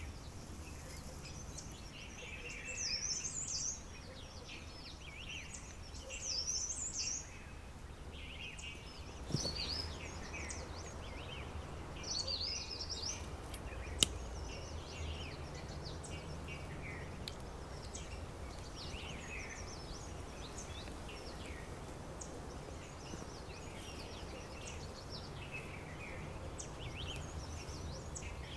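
Several birds singing and calling in short chirps and warbled phrases, with louder bursts of song about 3 and 6 seconds in, over a steady low rumble. A single sharp click near the middle is the loudest moment.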